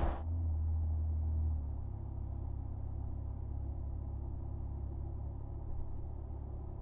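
Ford F-150's twin-turbo 3.5L EcoBoost V6 idling through a Proven Ground C&L Series stainless cat-back exhaust with a straight-through muffler and side exit. It gives a steady low rumble, settling a little lower about a second and a half in, after a louder burst cuts off right at the start.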